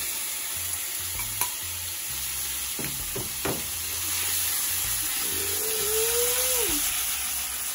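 Ackee sizzling in a hot stainless frying pan on a burner turned up too high, stirred with a metal spoon that knocks against the pan a few times.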